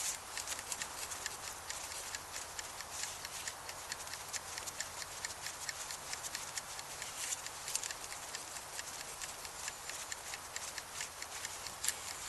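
Wood campfire crackling, with a steady hiss and many irregular sharp pops and snaps.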